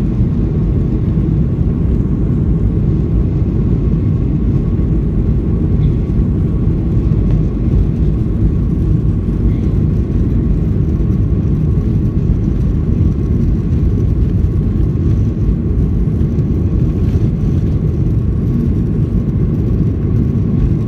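The twin CFM56-7B turbofan engines of a Boeing 737-800 running at takeoff power, heard from inside the cabin as a steady deep rumble with a faint steady whine above it.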